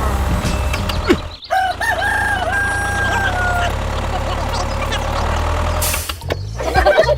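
A rooster crowing once, a bending call about two seconds long, over a steady low hum. Other pitched sounds start near the end.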